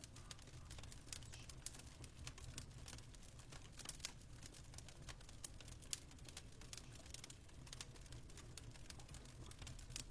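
Faint fireplace crackling: irregular small pops and snaps over a low steady rumble.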